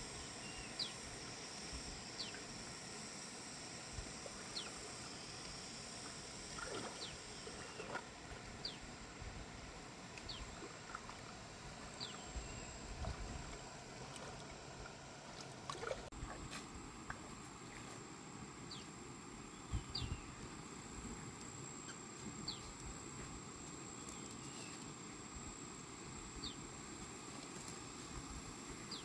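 Faint outdoor ambience of insects: a steady high-pitched drone, with a short falling chirp repeating about every second and a half and a few scattered knocks.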